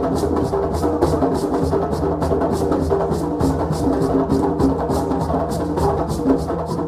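West African drumming, with fast, even hand-drum strikes and a wooden or metal click keeping time, layered with held pitched tones from instruments or voices.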